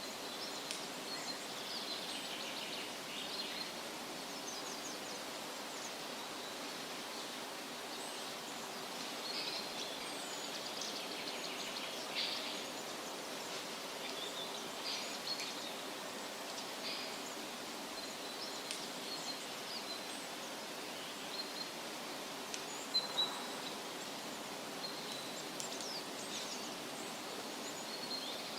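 Steady wind rustling through leafy trees, with scattered bird chirps and short trills throughout and two sharper chirps about 23 seconds in.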